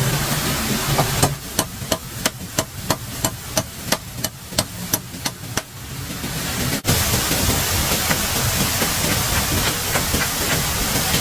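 A rapid, even series of sharp strikes, about three a second, lasting about five seconds. After an abrupt cut, a steady hiss follows with faint ticks in it.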